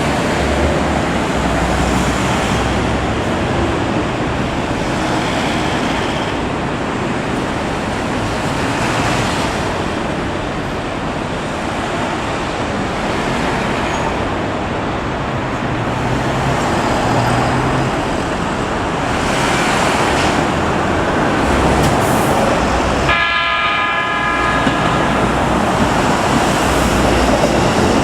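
Keikyu 800 series electric train running with a steady rumble, then sounding its horn once for about two seconds near the end.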